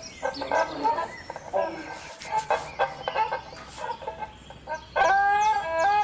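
Chickens clucking in short, irregular calls. About five seconds in, a flute starts a slow melody of held notes.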